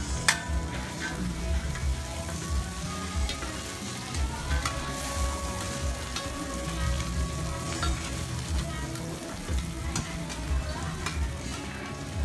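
Egg batter and seafood sizzling in oil in a wide flat pan. Two metal spatulas scrape and click against the pan again and again as the food is turned.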